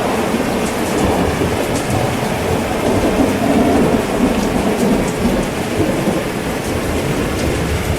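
Heavy rain falling steadily under a low rolling rumble of thunder that swells in the middle and eases off.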